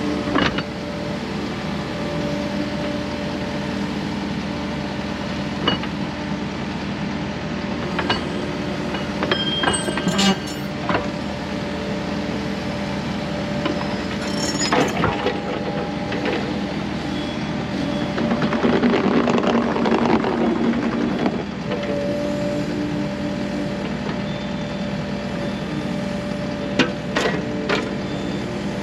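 An engine idling steadily under intermittent metallic clinks and knocks of hand-tool work. About two-thirds of the way in comes a few seconds of louder rushing noise.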